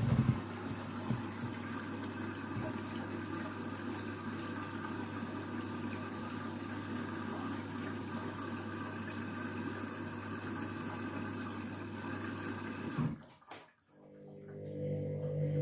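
Candy washing machine filling with water through its inlet valve: a steady rush of water with a low hum, which cuts off about 13 seconds in as the fill stops. A quieter low humming tone starts near the end.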